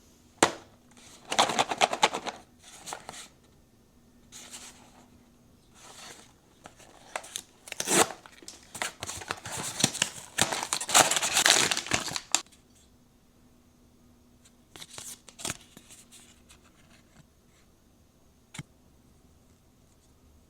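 Blind box packaging being torn open and crinkled by hand in repeated rustling bursts as the figure is unwrapped, then a few light clicks and taps, one sharp click a few seconds from the end.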